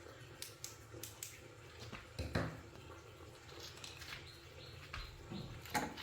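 Scattered light clicks, taps and scrapes of handling, with a louder knock about two seconds in and another near the end, over a low steady hum.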